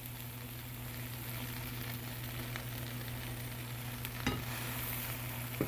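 Butter sizzling steadily under a grilled cheese sandwich frying in a pan, with two short knocks about four and five and a half seconds in.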